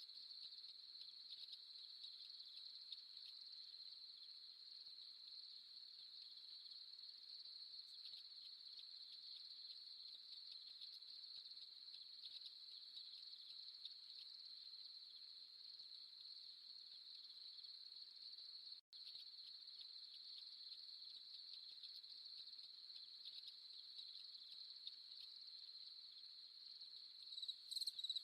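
Crickets trilling in a faint, steady, high-pitched chorus. It cuts out for an instant about two-thirds through, and louder, evenly pulsed chirps start near the end.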